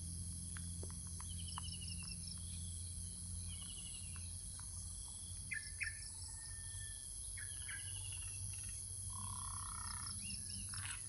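Birds calling with short chirps and a few quick trills, over a steady high insect hum and a faint low hum.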